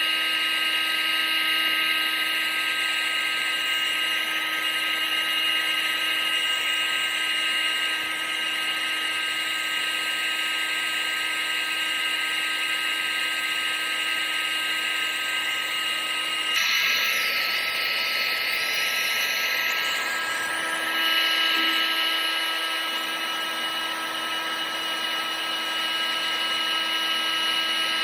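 Vacuum cleaner motor running steadily: a high motor whine over rushing air. About sixteen seconds in, the whine shifts slightly in pitch and carries on.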